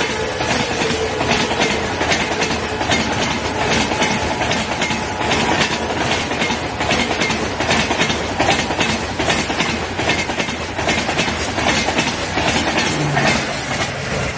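A train running past, its wheels clattering over the rail joints in a steady run of quick clicks. The end of a horn falls in pitch in the first second, and a low steady hum comes in near the end.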